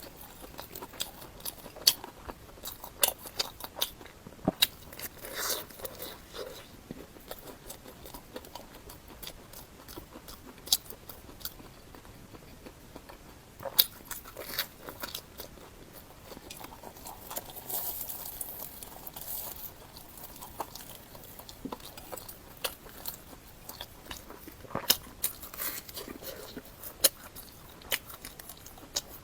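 Close-miked eating: bites, crunching and chewing, with sharp irregular mouth clicks throughout.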